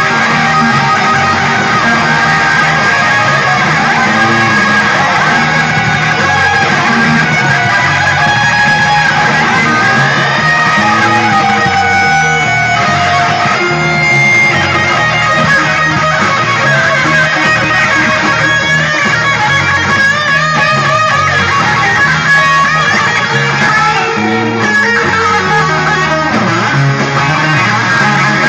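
Guitar-led music, with electric guitar lines that bend in pitch over a steady, pulsing bass line; no singing.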